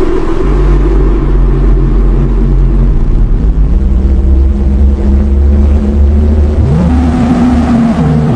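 A motor vehicle's engine running steadily, its pitch rising briefly about seven seconds in.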